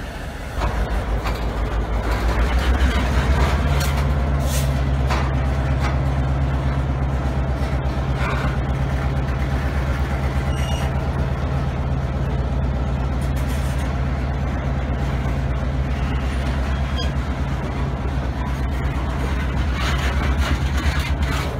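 Diesel locomotive of a freight train running under power: a steady low drone sets in about half a second in and steps up a notch a few seconds later, as covered hopper cars roll slowly past with scattered clanks from wheels and couplers.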